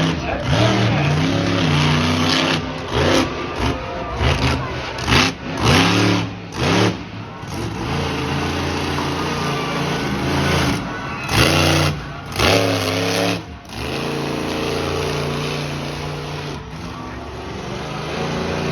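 Monster truck engine revving in a string of short, loud bursts, with steadier running between them.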